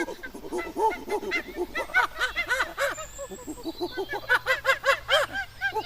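Monkey chattering: a rapid run of short hooting calls, each rising and falling in pitch, several a second.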